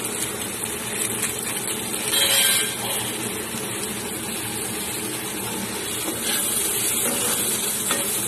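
Potato wedges and tomato pieces sizzling in hot oil in a frying pan, stirred with a flat metal spatula, with a brief louder burst about two seconds in.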